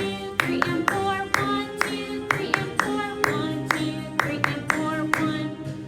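Concert band music: held wind-instrument notes over sharp hits on a steady beat, about two a second.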